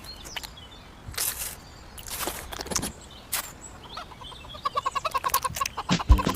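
Chicken clucking in a quick run of short calls in the second half, after a few brief swishing noises; music with a beat comes in near the end.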